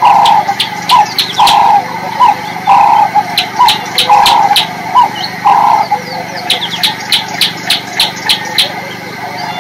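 Birds calling: a short, mid-pitched call repeated about every three-quarters of a second for the first six seconds or so, over clusters of quick, sharp high chirps.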